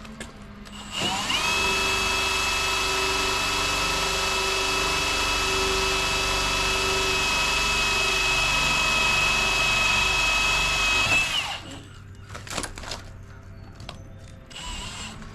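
Power drill with a hole saw bit boring through the house wall: it spins up about a second in, runs steadily for about ten seconds, then stops suddenly, followed by a few short knocks.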